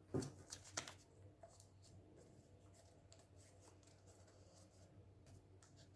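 Paper rustling and crinkling as pieces of paper are pressed onto a glued cone: a short burst of crackles in the first second, then faint scattered rustles.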